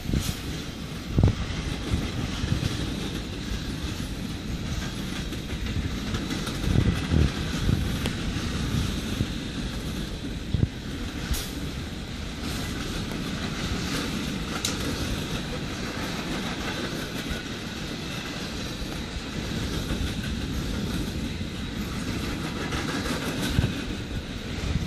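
Freight train cars rolling past at close range: a steady rumble of steel wheels on rail, with a few sharp clanks scattered through it.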